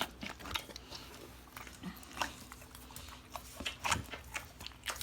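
A pet dog making small mouth and snuffling sounds close to the microphone: a scatter of short, irregular clicks and brief noises.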